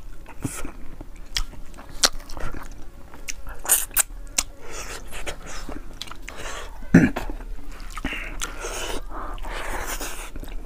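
Close-miked chewing and wet lip-smacking of boiled fish and rice, with many short sharp mouth clicks.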